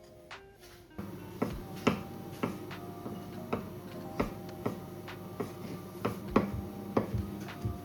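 Sharp, regular clicks, about two a second, starting about a second in, over soft background music.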